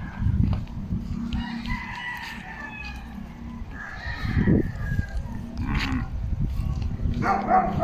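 Rooster crowing twice, two long drawn-out calls a couple of seconds apart, over a steady low rumble.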